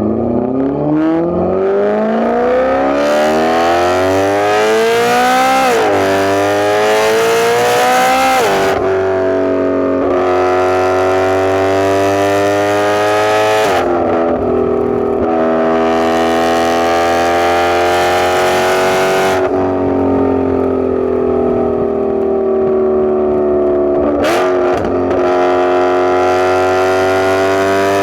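A BMW E92 M3's 4.0-litre V8 running through a catless, X-piped exhaust with a valved muffler. It pulls hard with rising pitch, then drops pitch at upshifts about six and eight seconds in. It settles into steadier cruising with two more shifts, gives a quick rev blip just before the end, and pulls up again.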